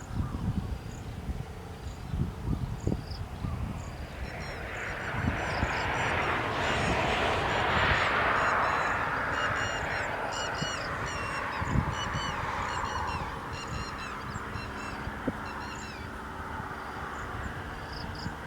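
Rapid series of short, high-pitched bird chirps, over a broad rushing noise that swells and fades in the middle, with low thumps of wind on the microphone.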